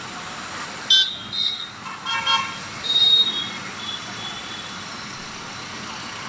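Vehicle horns tooting in several short blasts over steady road traffic noise, with the honking clustered in the first half and then only the traffic running.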